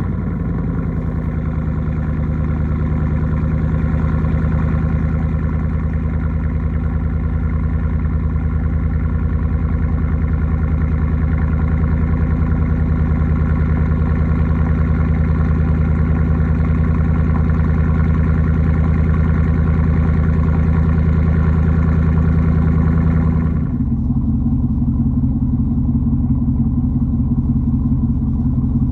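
Chevy Silverado Trail Boss pickup engine idling steadily through its exhaust, just after being started. About 23 seconds in the sound changes abruptly: the higher part drops away and it gets a little quieter.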